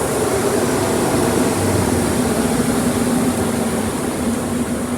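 Car wash air-dryer blowers running with a loud, steady rushing hum, with a low steady tone coming in about a second and a half in.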